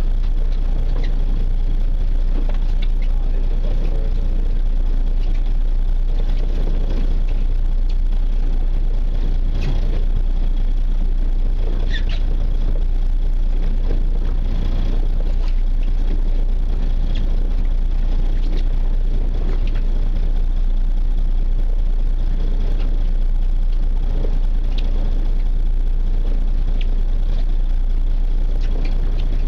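Fishing boat's engine running steadily as a constant low rumble, with a few faint short ticks on deck.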